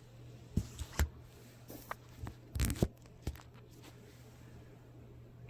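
A handful of small, sharp clicks and knocks from screws and a screwdriver being handled and set into the laptop's screen assembly, clustered in the first three and a half seconds, over a steady low hum.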